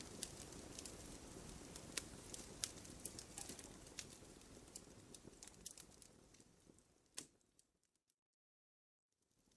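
Wood campfire crackling, with sharp pops over a low rumble. It fades out about six to eight seconds in, goes completely silent for a little over a second, then fades back in near the end.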